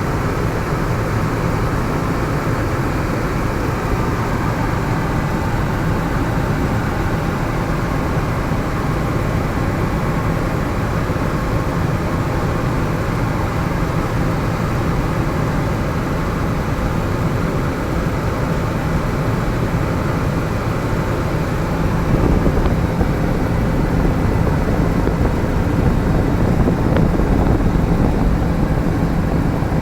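Helicopter in flight heard from aboard: a steady, loud drone of rotor and engine that grows a little louder about two-thirds of the way through.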